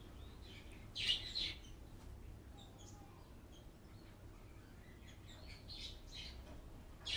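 Small birds chirping in short high-pitched bursts, loudest about a second in and again near the end, over a faint low hum.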